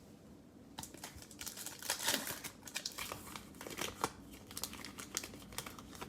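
Plastic wrapper of a trading-card cello pack being torn open and crinkled. The crackling starts about a second in and goes on in a dense, irregular run for about five seconds, loudest about two seconds in.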